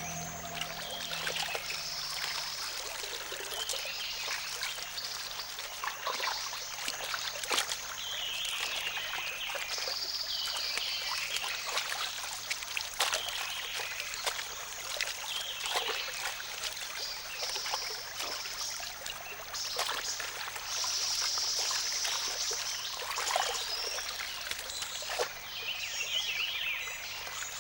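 Water trickling: a steady hiss full of small clicks and splashes, over a faint low hum.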